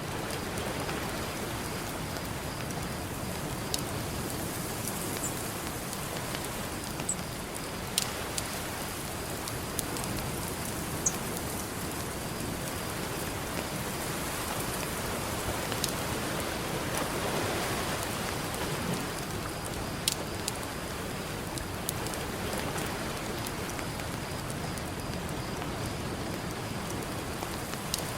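Campfire crackling, with scattered sharp pops over a steady wash of ocean surf that swells a little past the middle.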